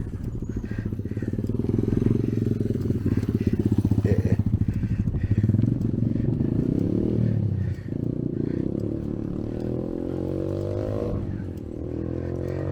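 A motor vehicle engine running close by. Its pitch drops sharply about two thirds of the way in, then climbs steadily as it speeds up.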